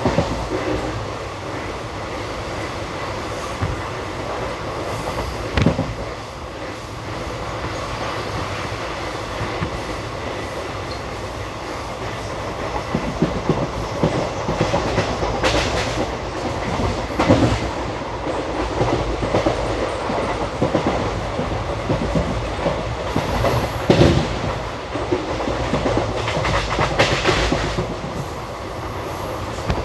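Express passenger train running along the line, its wheels clattering over rail joints with a steady rumble and a few sharper knocks along the way.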